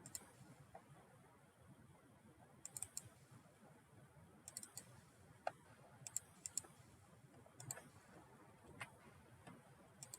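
Scattered clicks of a computer mouse and keyboard in a quiet room, coming singly, in quick pairs and in short clusters about once a second or two.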